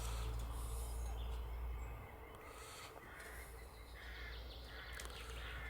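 A crow cawing repeatedly, roughly one caw a second, from about halfway through, over a faint low rumble.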